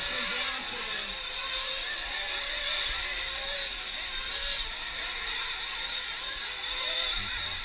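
Several 1/8-scale nitro RC truck engines running at high revs on the track, a steady high-pitched whine that wavers slightly as the trucks speed up and brake.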